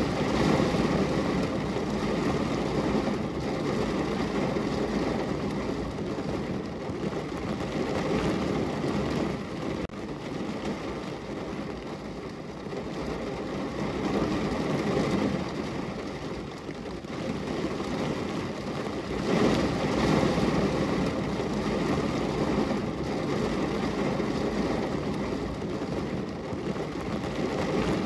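Steady rain falling on a window, an even hiss that swells and eases every few seconds.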